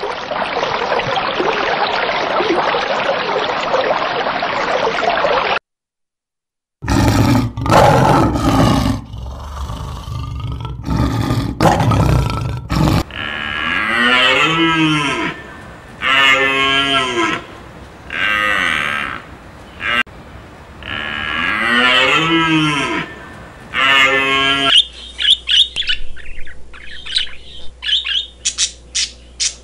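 A run of animal sounds in turn, opening with a steady rushing noise. Next comes a stretch of loud, uneven noisy sounds, then a series of drawn-out animal calls, each rising and falling in pitch, about one every two seconds. Rapid bird chirping closes the run.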